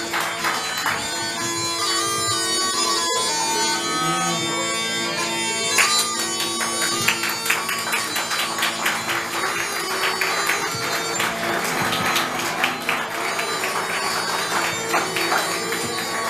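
Scottish small pipes playing a tune over steady drones, with a more mellow tone than Highland bagpipes, with many short sharp claps or taps over it from about six seconds in.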